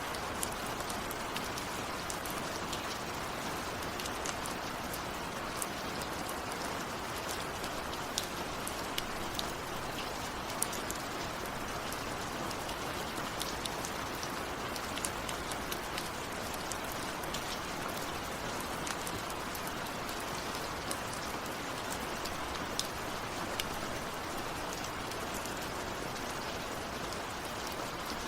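Steady heavy rain with many sharp individual drops spattering on a surface.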